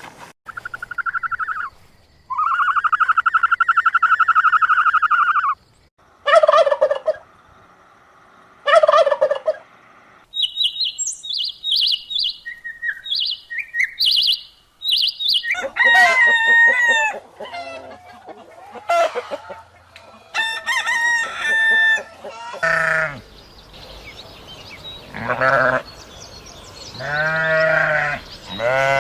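A string of different animal calls one after another. A long held call comes first, then two shorter calls, a run of high short chirps, and several rapid call sequences near the end, the last ones low-pitched.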